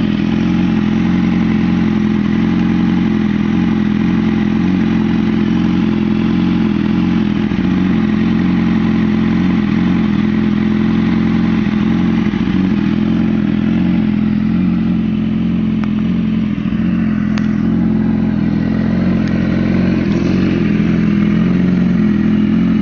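BMW S1000RR sportbike's 999 cc inline-four engine idling steadily at an even speed.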